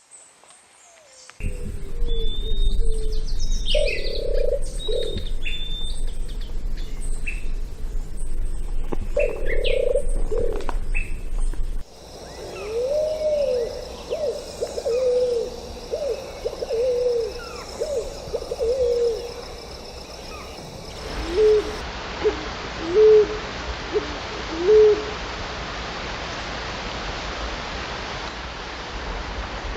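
Low hooting bird calls, several in short series, each hoot rising and falling slightly in pitch, over faint chirps of other birds. The calls come from a few separate recordings joined one after another.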